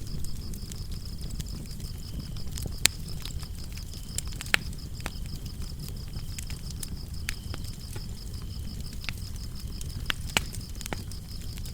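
Wood fire burning with a low steady rumble and sharp crackles and pops every second or two, over a steady high-pitched cricket chirping.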